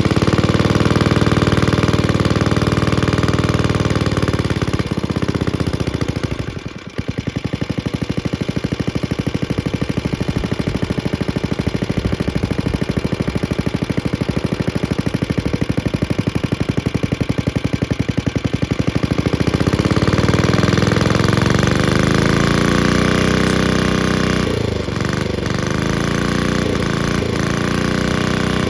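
Antique Briggs & Stratton Model WI single-cylinder engine running soon after a cold start, with the choke in use. It stumbles briefly about a quarter of the way in, then runs on steadily, its speed rising and falling unevenly later on.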